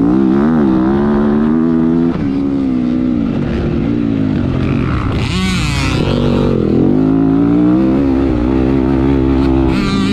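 Motocross bike engine, heard from an onboard camera, revving up and down as the rider works the throttle and gears around the track, its pitch rising and falling several times. A brief burst of hiss comes about five seconds in.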